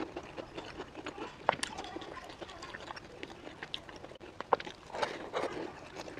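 A person chewing a sesame-crusted pumpkin pastry with black sesame filling: a steady run of small mouth clicks and soft crunches, with two sharper crunches, one about a second and a half in and one about four and a half seconds in.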